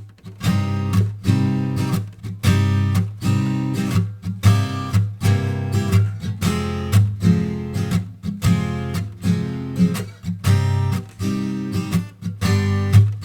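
Acoustic guitar strummed in a steady rhythm, about two strokes a second, with bass notes between chords, starting suddenly.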